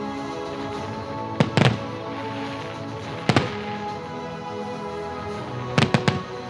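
Holiday fireworks salute bursting in sharp bangs: a pair about a second and a half in, one near the middle, and a quick cluster of three or four near the end, over steady background music.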